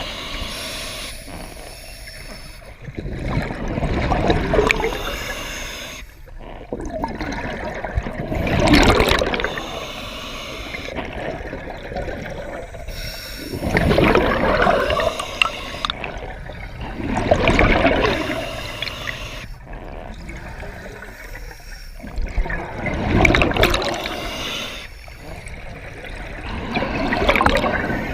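Water gurgling and splashing in repeated swells, each lasting a second or two and coming every few seconds.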